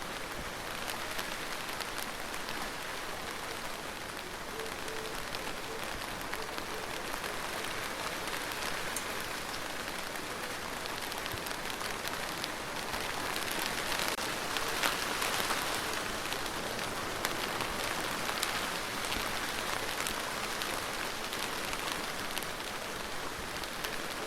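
Steady rain falling, an even hiss with individual drops ticking through it, swelling a little louder about halfway through.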